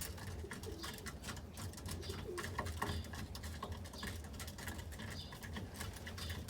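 Pigeons cooing in the loft, with scattered light clicks.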